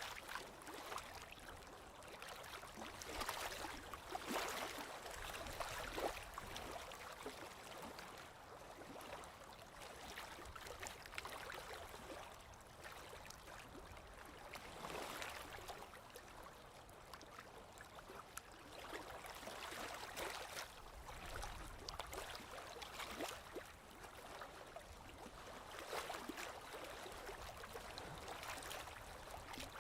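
Small waves lapping on a lake shore: gentle splashing that swells and falls back every few seconds, with small trickling clicks in between.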